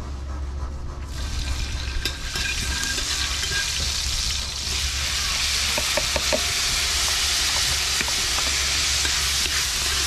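Chopped seasonings and vegetables frying in hot oil in a cooking pot. The sizzling starts about a second in, grows louder about halfway through, and is stirred, with a few light knocks against the pot.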